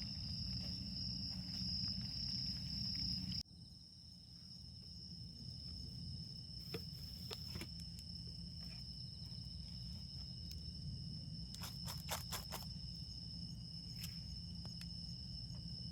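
Autumn insects trilling in a steady high continuous tone over a wood campfire, with scattered sharp pops from the fire and a quick run of them about twelve seconds in. The sound drops abruptly about three and a half seconds in, as at an edit.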